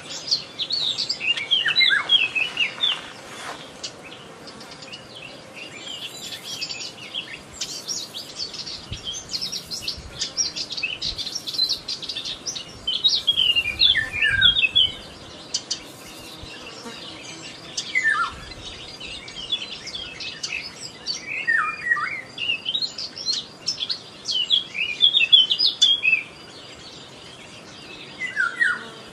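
Small songbirds singing and chirping in repeated quick, twittering phrases, with a faint steady high tone underneath.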